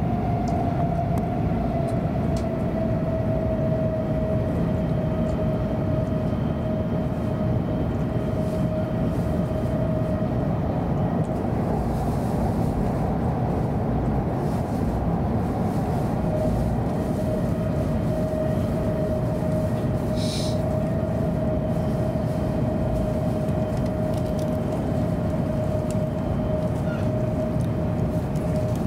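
Interior running noise of an E7/W7-series Hokuriku Shinkansen train at speed: a steady rumble of the wheels and running gear, with a steady whine that dips slightly in pitch in the first few seconds.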